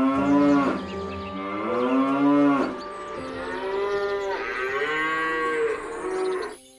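A cow mooing three times, long drawn-out calls, the last one the longest.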